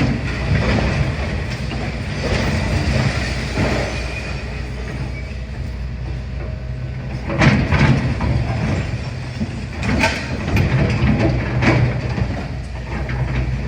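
Demolition excavator's diesel engine running steadily, with irregular crashes and scrapes of the building being pulled down. The loudest crashes come a little past halfway.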